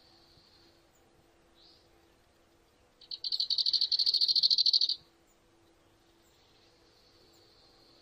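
A bird's rapid, high-pitched trill, loud and about two seconds long midway, with a few faint thin calls before and after.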